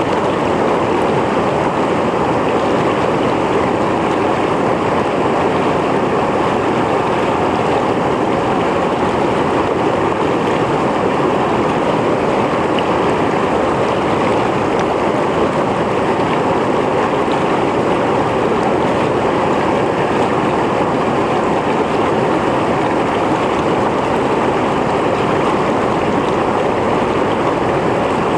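Mountain stream flowing over rocks: a loud, steady rush of water without a break.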